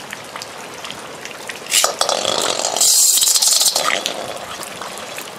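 Water trickling, with scattered light clicks of plastic being handled, then a louder rush of water for about two seconds in the middle.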